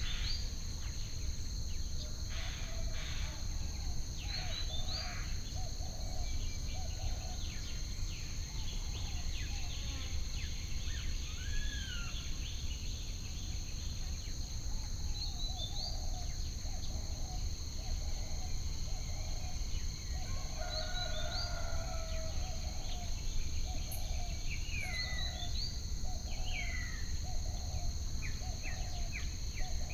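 Nature ambience of birds calling with short chirps over a steady insect drone and a low rumble. A lower call repeats a little over once a second in two runs.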